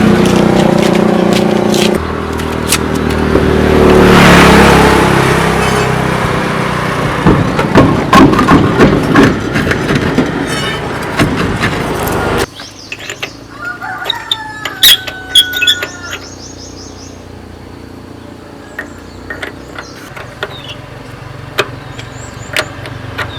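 A truck engine running, with scattered sharp knocks, cuts off abruptly about halfway. After that, birds chirp over a low background, with a few knocks now and then.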